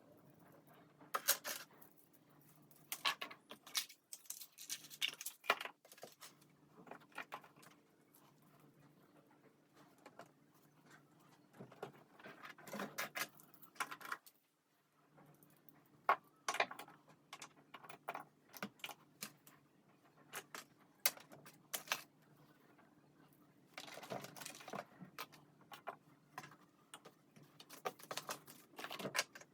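Small objects being handled close by: irregular clicks, taps and rustles, with a faint steady hum underneath.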